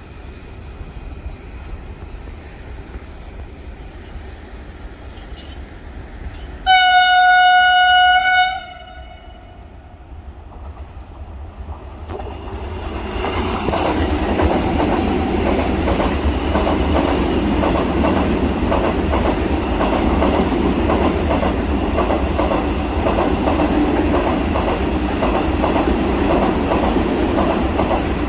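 Vande Bharat Express electric trainset sounding one steady horn blast of about two seconds, about seven seconds in. From about twelve seconds in it passes close at speed, loud and sustained, with wheels clattering over the rail joints.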